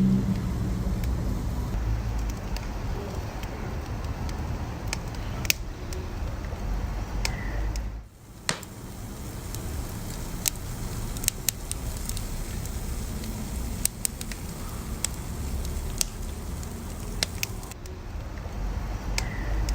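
Burning wood fire crackling, with sharp irregular pops and snaps over a steady low rumble. The sound briefly drops away about eight seconds in.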